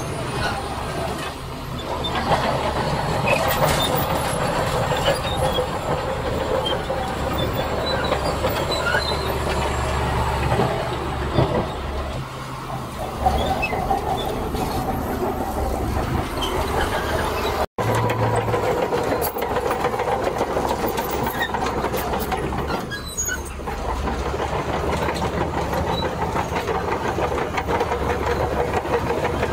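Tracked earthmoving machinery working: a steady diesel engine under the clank and squeal of steel crawler tracks. The sound breaks off for an instant about two-thirds of the way through, then the same machinery noise carries on.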